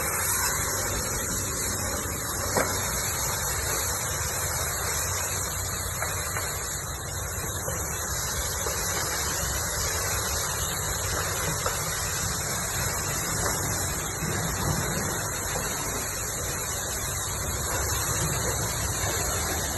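High-pressure car wash water spraying against a car, a steady hiss that keeps on without a break.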